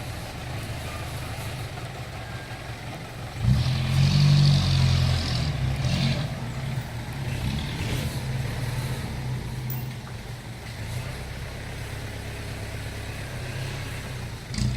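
Six-wheel truck engine running, revving up loudly about three and a half seconds in for a couple of seconds, then settling back to a steady run.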